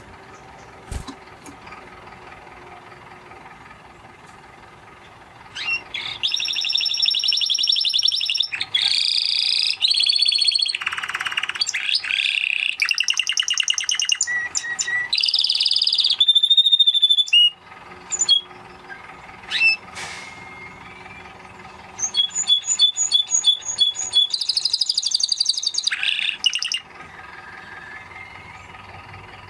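Spanish Timbrado canary singing in two bouts: a long run of rapid trills and rolling phrases that begins about five seconds in, a few short notes, then a second, shorter trilled bout near the end, over a faint steady background hiss.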